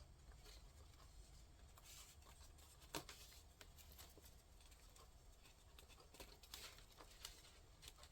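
Near silence with faint paper rustles and soft clicks, one sharper click about three seconds in: a paper cut-out being handled and pressed onto a paper plate.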